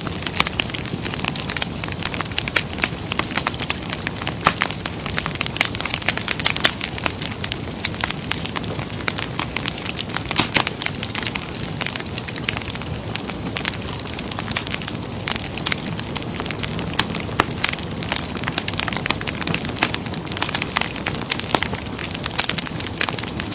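Wood fire crackling in a fireplace: many small sharp pops and snaps, irregular and frequent, over a steady hiss.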